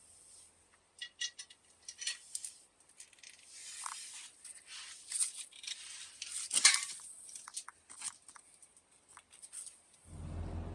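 Scattered light clicks, taps and scrapes of tools and parts being handled, with one sharper knock a little past the middle. A low steady hum starts near the end.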